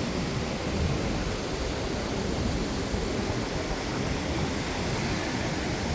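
Steady noise of ocean surf breaking on the beach, mixed with wind, with no distinct single events.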